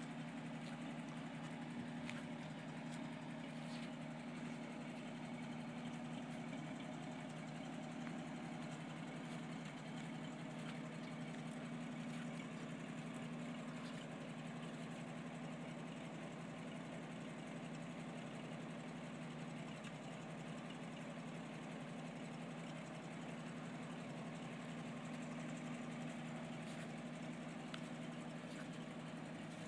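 A 1962 Toyota Land Cruiser FJ40's inline-six F engine idling steadily, with an even low hum that does not rise or fall.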